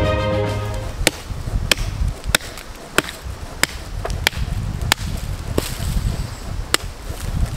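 A hand tool chopping, a steady run of sharp strikes about one every two-thirds of a second. Music fades out at the very start.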